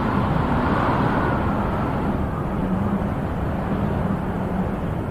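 Wind blowing steadily, a low rushing noise that swells briefly in the first second or two, then eases slightly.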